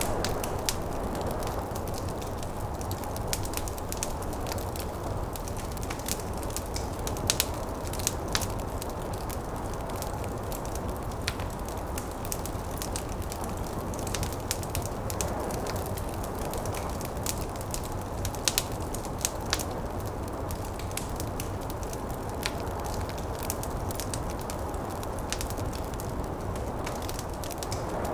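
Wood fire crackling and popping in a fireplace, scattered sharp pops over a steady low rush of wind from a snowstorm.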